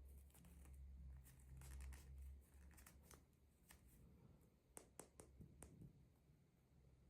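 Faint handling of small packaging and toy pieces: light rustles and small clicks, with a few sharper clicks about five seconds in.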